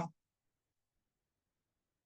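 Near silence: a man's spoken question cuts off in the first instant, then the audio goes dead with no room sound.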